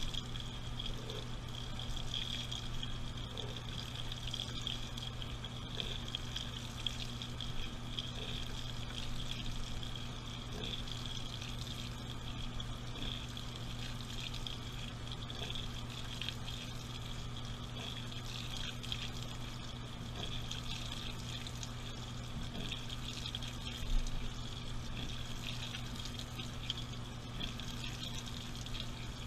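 Water running into a washing machine's drum as it fills, heard from inside the drum over a steady low hum, with one short knock about 24 seconds in.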